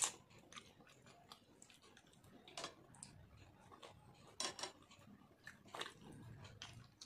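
Close eating sounds of a person chewing food eaten by hand, soaked rice and fried food, with wet mouth smacks. A few louder sharp clicks come at the start and then every second or two.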